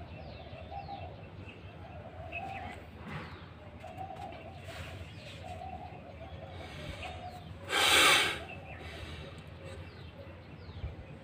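Birds calling: a low cooing call repeated about once a second, with thin, high chirps from other birds. About eight seconds in comes a brief, loud rush of noise.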